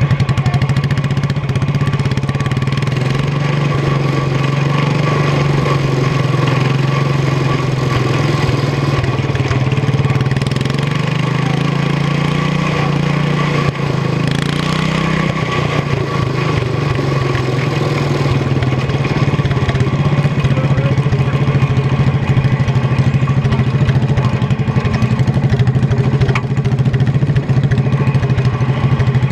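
Tractor engine running steadily at an even pitch; its speed creeps up slightly about halfway through, drops back, and then runs on steadily.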